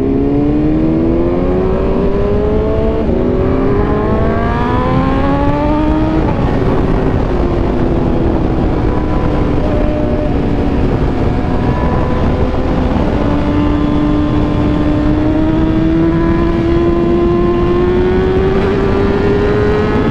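Superbike engine accelerating hard through the gears: its pitch climbs, breaks at an upshift about three seconds in, and climbs again until about six seconds. It then drops to a steadier cruise that slowly rises toward the end, under heavy wind rush.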